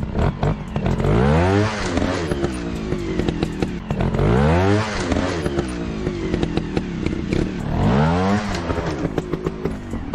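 Motorcycle engine revving up sharply three times at even intervals, with clattering throughout.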